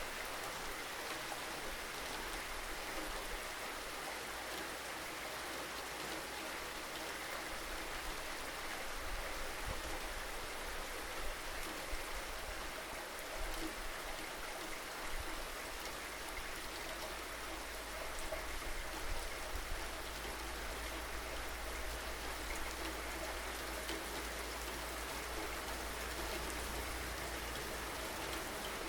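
Steady rain falling, a dense even patter with occasional louder drops, over a constant low rumble.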